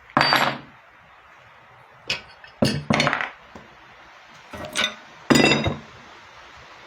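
About six sharp metallic clanks with a short ring, coming unevenly (one, then a cluster, then another pair), as metal tools or parts are knocked together or struck.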